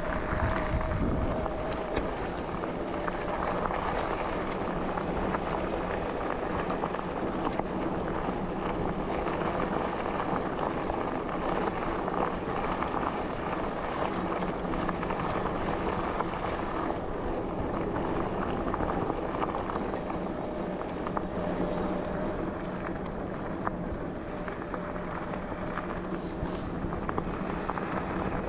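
A bicycle in motion: tyres rolling over a forest trail with fine crackling from the surface, under wind noise on the microphone, as one steady rushing sound.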